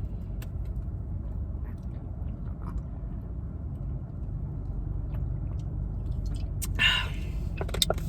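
Steady low rumble inside a parked car, with a short rustle and a few light clicks near the end.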